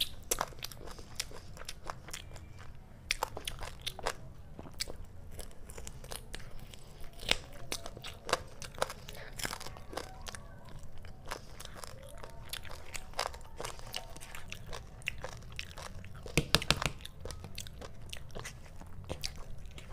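Close-miked eating of chicken leg curry with rice: chewing and biting, with many short wet mouth clicks and crunches, and a louder cluster of crunches about sixteen seconds in.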